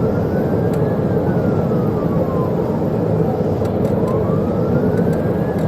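Police siren on a wail, slowly rising and falling about every five seconds, over loud, steady engine and road noise from a cruiser travelling at over 100 mph.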